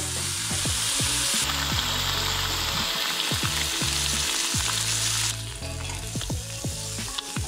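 Crappie fillets sizzling as they fry in hot butter in a frying pan. The sizzle is strong, then drops back noticeably about five seconds in.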